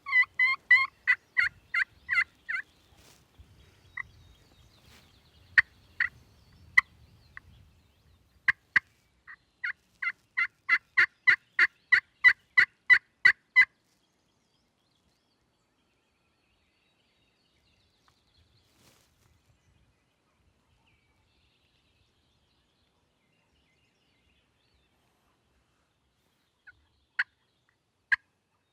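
Wild turkey yelping: a quick run of short, evenly spaced yelps at the start, a few scattered notes, then a longer series of about twenty yelps that grows louder. After that it goes near silent for about twelve seconds, and a few more yelps come near the end.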